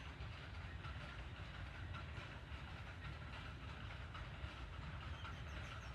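Water pouring steadily onto plant leaves: a continuous splashing hiss with a low rumble underneath.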